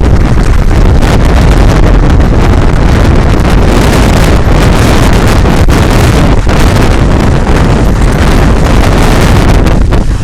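Strong gusty wind buffeting the microphone: a loud, steady rumble.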